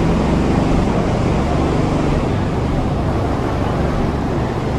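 A car engine running steadily close by, a low hum under a loud rushing noise.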